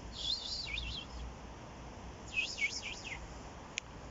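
A small bird singing two short, high, warbling phrases about a second apart, then a single sharp tick near the end.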